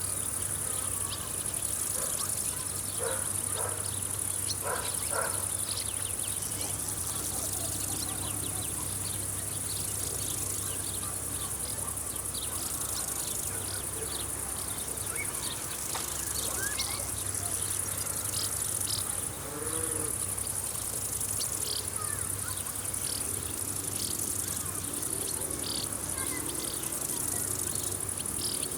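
A continuous chorus of crickets, a high-pitched shrill that swells and eases every few seconds, with many short chirps scattered through it. A steady low hum runs underneath.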